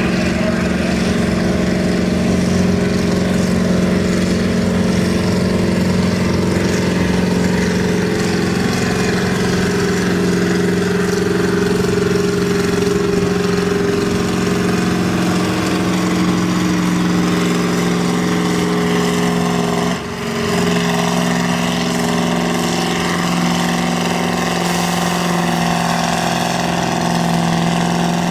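Naturally aspirated pulling tractor's engine running loud at steady high revs, a constant drone with one brief dip about twenty seconds in before it holds again at a slightly different pitch.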